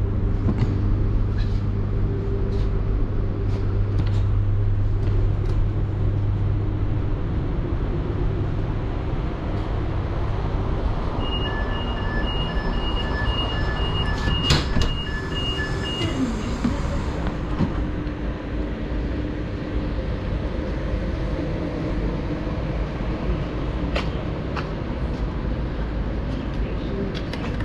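Steady hum and rumble of a train standing at a station. For a few seconds in the middle comes a run of evenly spaced electronic beeps, with a sharp click near their end.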